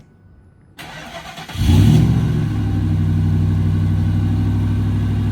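Cold start of a 2001 Ford F-150's 5.4-litre V8 through a full Flowmaster dual exhaust: the starter cranks about a second in, the engine catches at about a second and a half with a short flare, then settles into a steady, deep idle.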